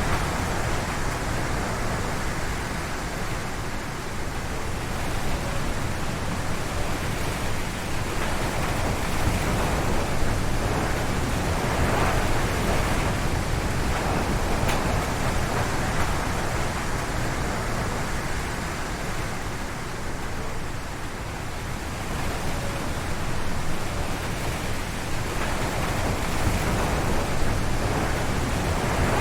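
Strong wind gusting through forest trees: a continuous rushing noise with a heavy low rumble, swelling and easing in slow gusts, strongest about twelve seconds in and again near the end.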